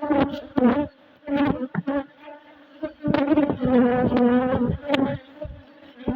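Honeybees buzzing at an open hive, several flying close past the microphone in loud passes lasting up to about a second each, the buzz's pitch bending slightly as each bee goes by.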